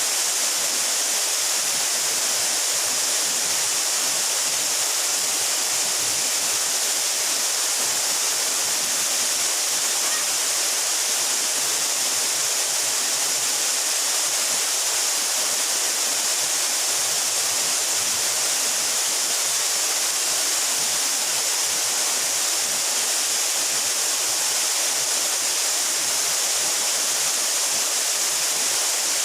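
A 12-metre mountain waterfall: water falling and splashing in a steady, unbroken hiss.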